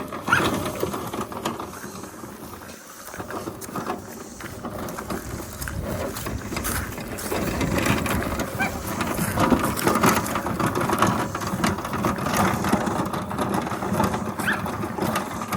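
Mowrator S1 all-wheel-drive remote-control mower driving on its electric wheel motors, with crackling from the tires rolling over the ground. The blades are not yet running. The noise grows louder over the first half and then holds steady.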